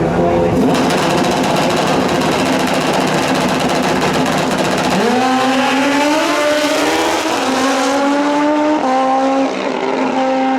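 Drag racing motorcycle launching at full throttle, a loud rush of exhaust starting under a second in. From about halfway, the engine note climbs and drops back at each of several upshifts.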